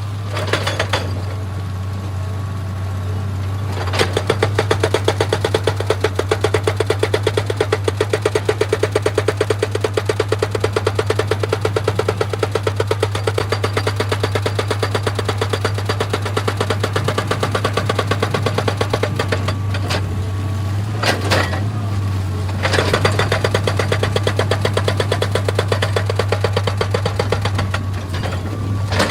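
Excavator's hydraulic rock breaker hammering stone in a rapid, even run of blows over the steady running of its diesel engine. The hammering pauses for a couple of seconds about two-thirds of the way through, then starts again.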